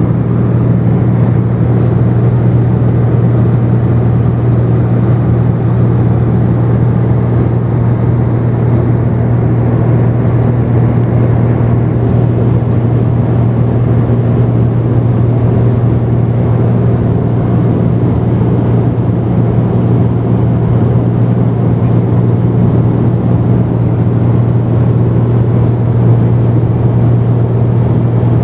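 Cessna 210's single piston engine and propeller droning steadily in cruise flight, heard from inside the cabin as a loud, even low hum with no change in pitch.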